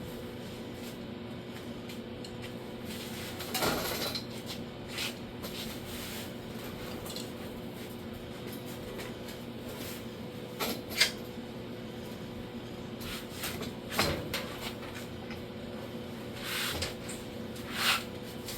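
Scattered knocks, clunks and rustles of a car door being handled and turned over, with a sharp click about eleven seconds in, over a steady electrical hum.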